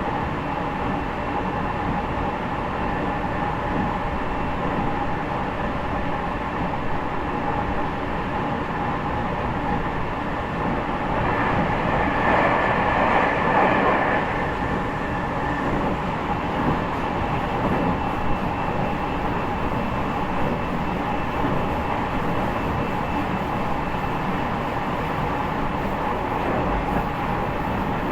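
Interior running noise of a JR East E501-series electric train, heard from motor car MoHa E501-8 under way: a steady rumble with a few held tones over it. It swells louder for a couple of seconds about twelve seconds in.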